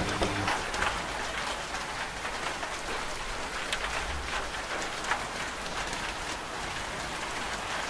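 Steady rain falling on a surface, an even hiss with scattered drop ticks. A washing machine's low, steady motor hum cuts out about half a second in, leaving the rain alone.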